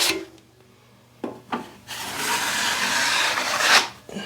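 Steel plastering blade scraped across the setting compound of a drywall ceiling patch, flexed to knock off the edge: two short strokes, then one long stroke of about two seconds.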